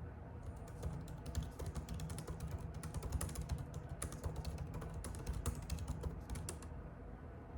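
Typing on a computer keyboard: a fast run of keystroke clicks that starts about half a second in and stops shortly before the end, over a steady low hum.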